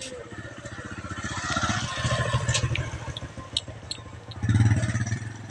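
A motorcycle engine running with a rapid, even beat, growing louder about two seconds in and loudest near the end.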